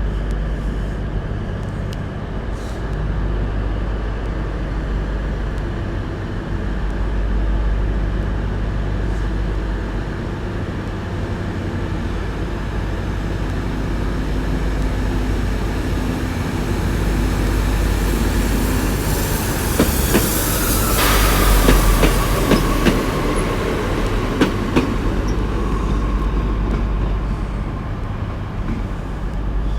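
A Great Western Railway Class 150 diesel multiple unit departing, its diesel engines running steadily under power. About two-thirds of the way through there is a burst of hissing and wheel clicks over rail joints, followed by a faint squeal slowly falling in pitch.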